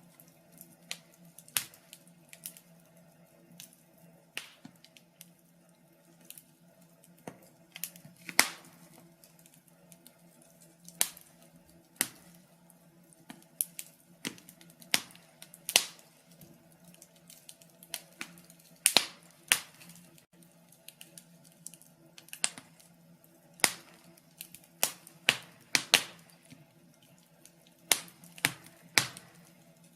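Wood fire crackling: irregular sharp pops and snaps, sometimes two or three close together, over a faint steady low hum.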